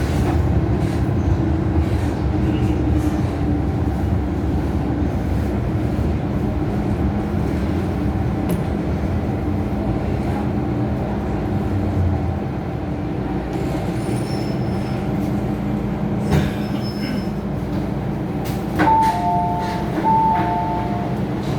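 MTR Island Line train running on the track with a steady rumble and a low hum. Near the end a two-note chime, a higher note then a lower one, sounds twice.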